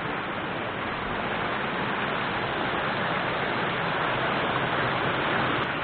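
Small forest river flowing, a steady rushing of water that swells slightly midway.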